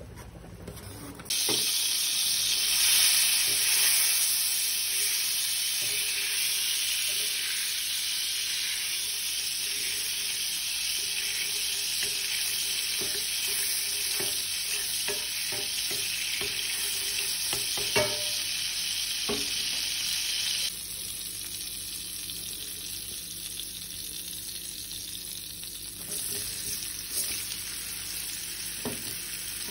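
Butter, then sliced shallots and onion, sizzling and frying in a nonstick pan for a sauté base, with a few clicks of a spatula against the pan. The sizzle starts abruptly about a second in and drops to a quieter level about two-thirds of the way through.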